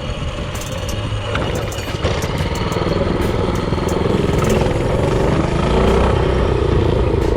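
Predator 224cc single-cylinder four-stroke engine on a mini bike running under way, getting louder about two seconds in.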